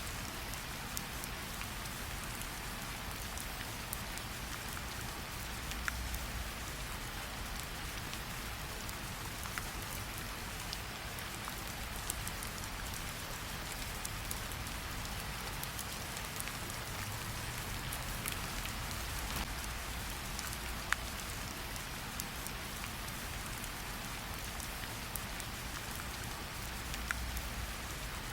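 Steady rain falling in an even hiss, with a few sharp, isolated pops of a crackling campfire scattered through it.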